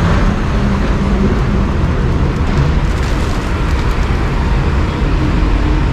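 Steady road traffic noise, a dense rumble without any single event standing out.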